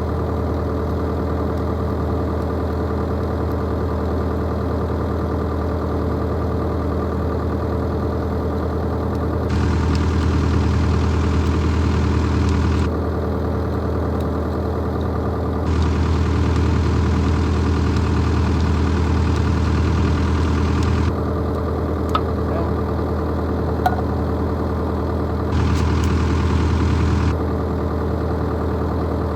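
Excavator diesel engine idling steadily, with three louder stretches of a few seconds each, near the middle and toward the end, where a hiss joins the hum. There are a couple of faint clicks in between.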